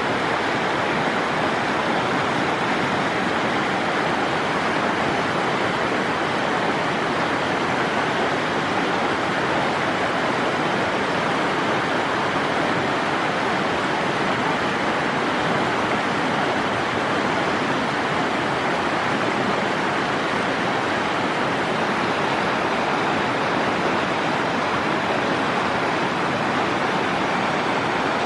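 Steady rush of a fast-flowing river, an even noise without breaks.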